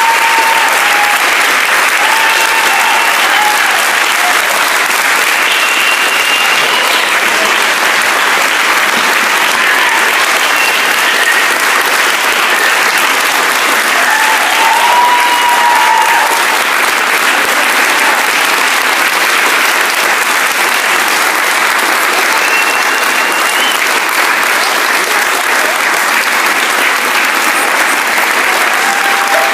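A large audience applauding loudly and steadily throughout, with a few voices calling out over the clapping.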